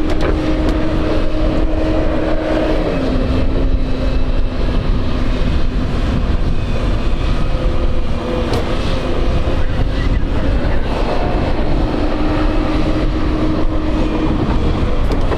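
Airbus A321neo jet engines running: a steady rumble with a faint hum that drops a little in pitch about three seconds in.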